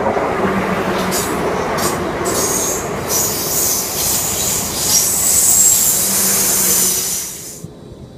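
Passenger train running past close by, a steady rumble of wheels on rails with high-pitched wheel squeal from about two seconds in. The sound cuts off abruptly near the end.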